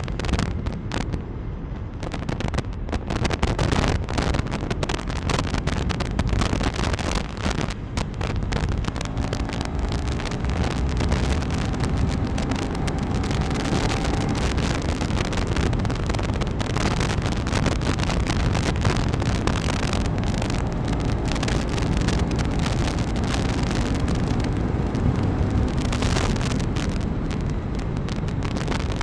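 Wind buffeting a motorcycle rider's microphone at road speed, with the KTM 390 Enduro R's single-cylinder engine running underneath.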